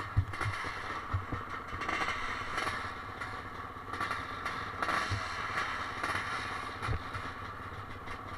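Motocross bikes running in the distance as a steady engine noise, with several dull knocks and some clatter close by.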